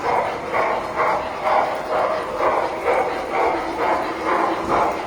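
Steady barking, about two barks a second, over a low background rumble.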